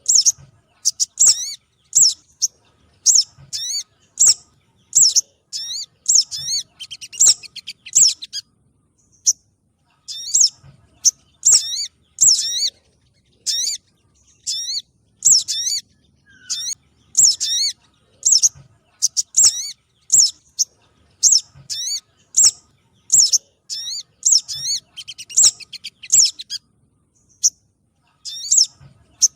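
Bird-lure recording of spiderhunter and sunbird calls: short, sharp, high chirps repeated about once or twice a second in runs, with brief pauses between runs.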